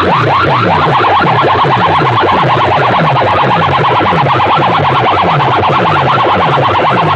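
Loud electronic DJ track played through a big sound system, made of rapid rising siren-like sweeps, about five a second, over a pulsing, stepping bass line.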